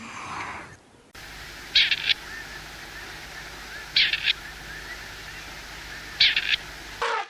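A bird calling: a short call of two or three quick high notes, repeated three times about two seconds apart over steady background noise.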